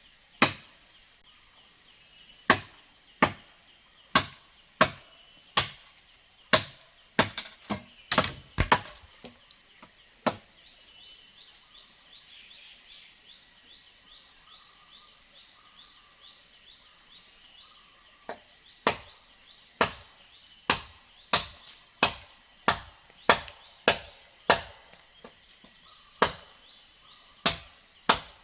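Chopping blows into wood, about one a second, stopping for several seconds midway and then starting again. Insects trill faintly and steadily behind them.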